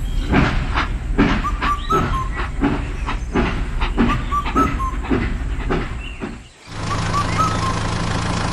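Rhythmic chuffing like a steam train, a regular series of short strokes with brief whistle-like glides. About two-thirds of the way in it cuts off and gives way to a steady low engine hum.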